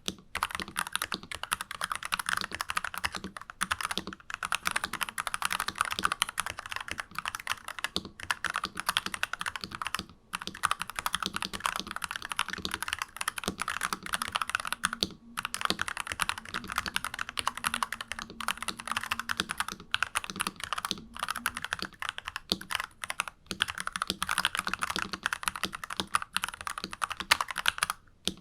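Fast, continuous typing on a NuPhy Halo 96 mechanical keyboard with unlubed Alpaca linear switches, dense keystroke clacks with a few short pauses.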